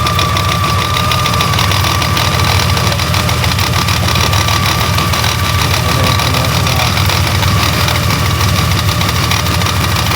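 Honda Gold Wing GL1800's flat-six engine idling steadily with a fast knocking noise and a steady high whine over it: the abnormal engine noise that has been getting worse, along with vibration felt through the handlebars.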